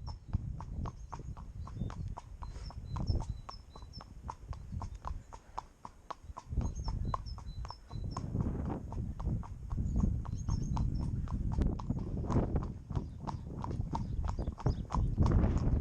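Connemara pony's hooves clip-clopping at a steady walk, about four hoof strikes a second, with wind buffeting the microphone and getting heavier in the second half.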